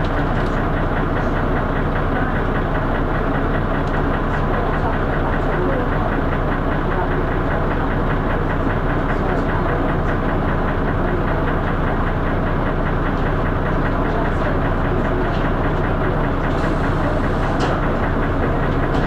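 Dennis Arrow bus's diesel engine running steadily with a loud knocking and thrash.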